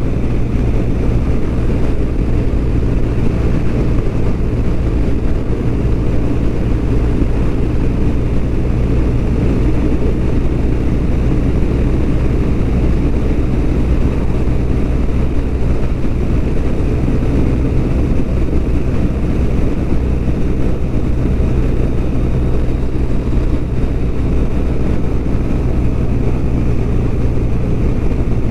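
BMW R1200RT motorcycle's flat-twin engine running steadily at cruising speed, mixed with wind and road noise.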